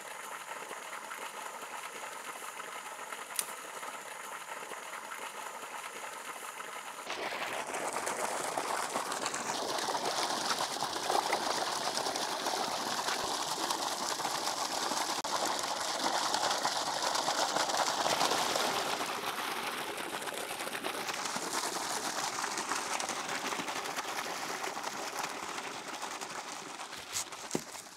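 Water gushing steadily from a pipe outlet; from about seven seconds in it grows louder as the stream splashes into a steel bowl while hands rub and turn pieces of raw mutton to wash them.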